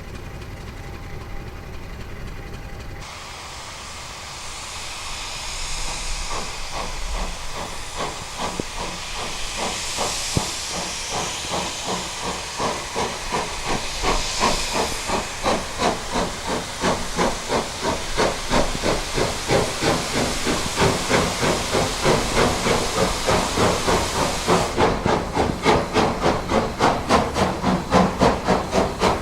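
Steam locomotive working, with a steady hiss of steam and regular exhaust chuffs that grow steadily louder, about two a second near the end. A few seconds of music come before it at the start.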